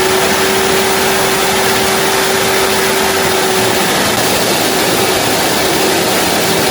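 Shiwoshi X3PRO-T industrial vacuum cleaner running: a loud, steady rush of air with a steady motor hum under it.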